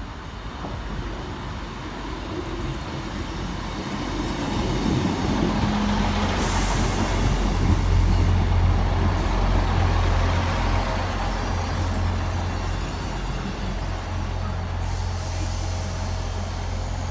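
A train at the station: a low engine rumble that builds up over the first several seconds and then holds steady, with a few short hisses of air, typical of brakes.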